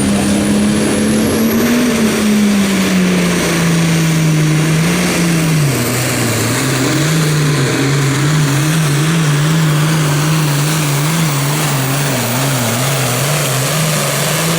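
Super Farm pulling tractor's turbocharged diesel engine running hard under load down the pull. A thin high whine climbs over the first two seconds; about five seconds in the engine note drops as it loads down, then wavers up and down in a steady rhythm, a little faster than once a second.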